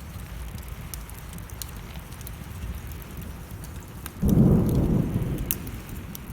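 Wood fire crackling over steady rain, with a sudden clap of thunder about four seconds in that rumbles away over a second or two and is the loudest sound.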